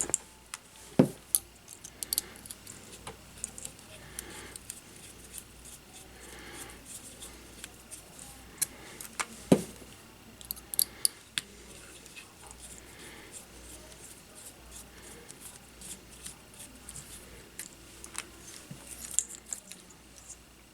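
Small tools and drone parts handled at a workbench: scattered light clicks and taps, with two louder knocks, one about a second in and one about halfway through.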